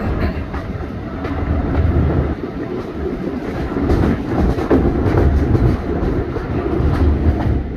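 Heritage railway train hauled by a small diesel shunter, heard from an open carriage window while running: a steady heavy rumble of the wheels on the track with scattered clicks over the rail joints.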